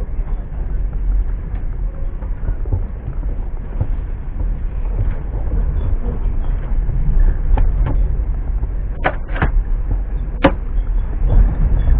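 Passenger train running: a steady low rumble that slowly grows louder, with a few sharp clicks and knocks in the second half.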